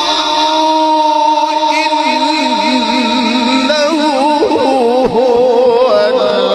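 Melodic Quranic recitation of a dua: a single voice holds long, ornamented notes, and a new phrase begins about four seconds in.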